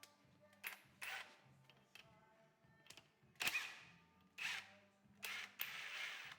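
About six sharp clacks and clinks of tools and engine parts being handled and set down during motorcycle engine assembly, over faint background music.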